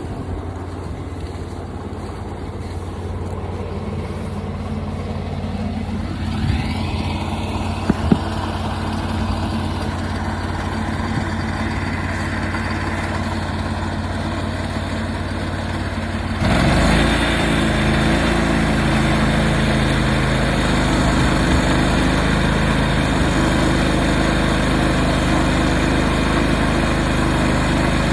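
Portable sawmill's engine running, its pitch rising over a few seconds as it is throttled up, with two sharp knocks about seven and eight seconds in. About halfway through the sound jumps louder and rougher as the blade goes into the walnut log and keeps cutting.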